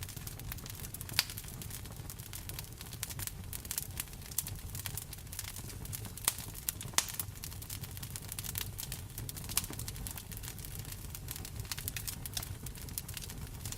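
Wood fire crackling in a fireplace: many irregular sharp pops and snaps over a steady low rumble, a few pops louder than the rest.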